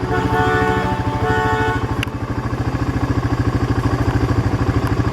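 A small single-rider vehicle's engine, an ATV or motorbike, running steadily with an even fast pulse. Two short steady tones sound in the first two seconds, and there is a sharp click about two seconds in.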